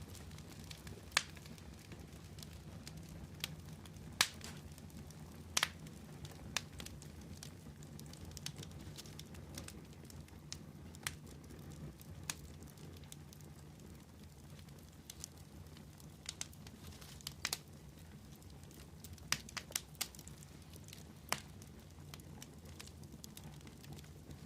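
Wood fire crackling: sharp, irregular pops and snaps scattered throughout, over a steady low rumble.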